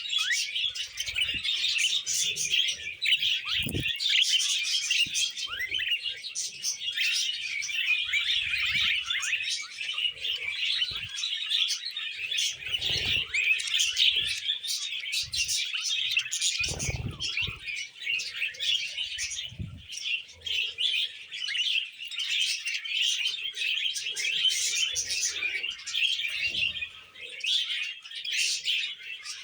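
A flock of budgerigars chattering and chirping without pause, a dense, busy warble. A few soft low thumps sound now and then.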